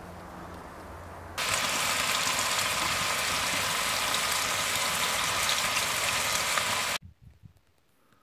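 Saffron milk cap mushrooms sizzling in a frying pan, a steady hiss that starts suddenly about a second and a half in and cuts off abruptly about seven seconds in. Before it there is a faint low hum.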